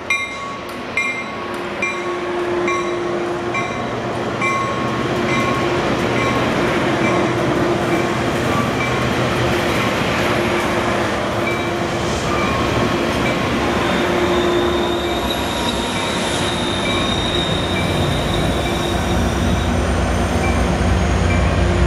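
Metrolink commuter train pulling out past the camera: steel wheels rolling and clicking over the rail joints, with a thin high wheel squeal. A bell dings about twice a second and fades out after about eight seconds. A deep diesel rumble builds near the end as the pushing locomotives, an EMD F59PHI and an MP36PH-3C, draw near.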